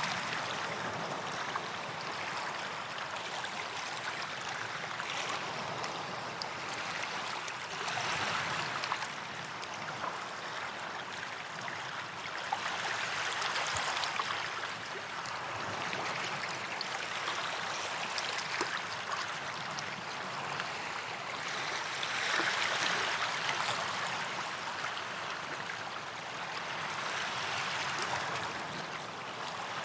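Gentle waves washing up on a sandy beach: a hissing surf that swells and fades every four to six seconds, with a light fizzing crackle between swells.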